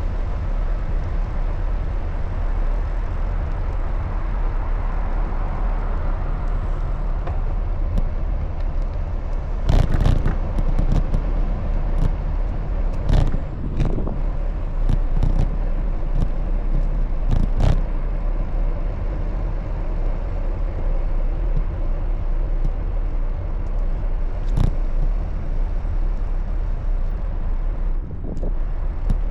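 Steady low rumble of riding a bicycle along a city road: wind buffeting the microphone and road and traffic noise, with several sharp knocks or rattles, the loudest about a third of the way through.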